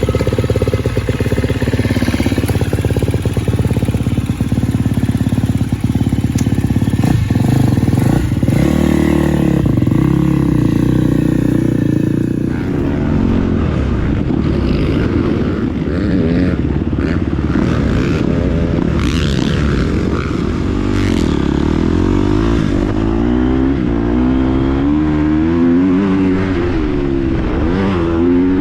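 2019 KTM 250 SX-F's single-cylinder four-stroke engine running hard under riding, its revs rising and falling again and again through throttle and gear changes.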